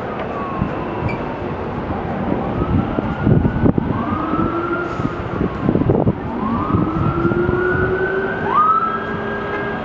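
Emergency vehicle siren wailing, its pitch gliding up and down, over steady low street and vehicle noise.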